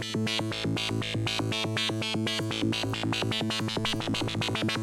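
Electric guitar run through a Boss SY-200 synthesizer pedal's sequencer, a held note turned into a fast, even run of repeating synth notes. The signal is dry and direct, with no amp or cabinet sound.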